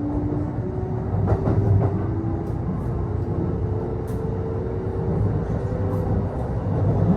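Kintetsu electric train heard from inside the passenger car while running: a steady rumble of wheels on rail, with a faint motor whine that rises slowly in pitch as the train gathers speed, and a few short clicks from the track.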